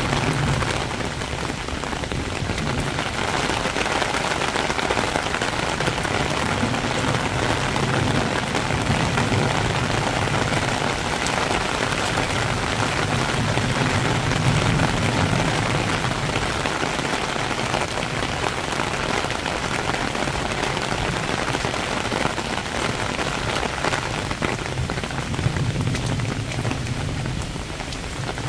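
Heavy rain shower falling steadily on a paved path and leafy hedges: a dense, even hiss of rain with a low rumble that swells and fades underneath.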